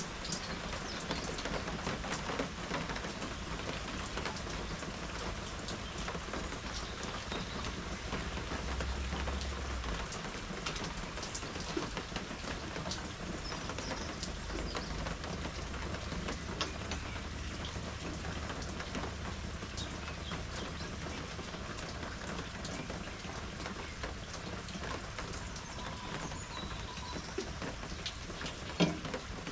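Steady rain falling, with many small drop ticks on surfaces, and one sharper tap near the end.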